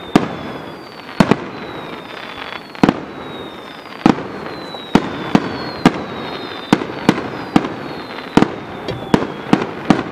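Fireworks display: aerial shells bursting with a dozen or more sharp bangs, coming faster in the second half, over thin high whistles that fall slightly in pitch.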